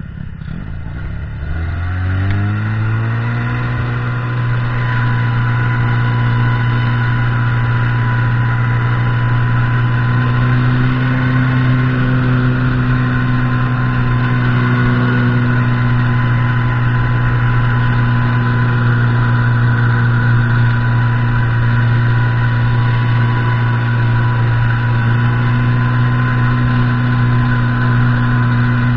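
Buran snowmobile's two-stroke engine revving up over the first couple of seconds, then running steadily at high revs as it pulls along.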